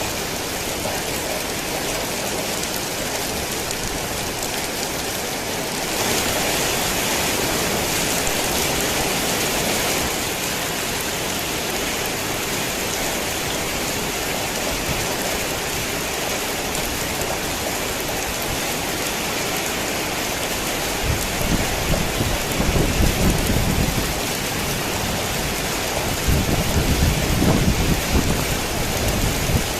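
Heavy rain falling steadily, heavier for a few seconds about six seconds in. Low rumbles of thunder roll twice in the second half.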